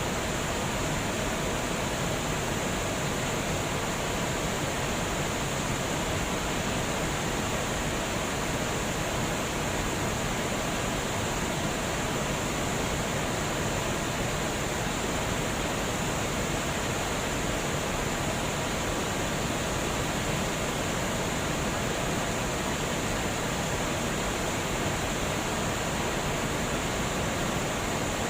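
Steady rush of water flowing over a dam, an even unbroken wash of noise.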